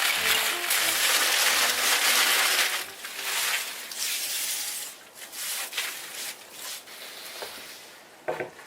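Crunching, crushing noise, loud for about the first three seconds, then fainter and patchier, with a few short sharp crunches near the end. Faint music notes fade out in the first second or so.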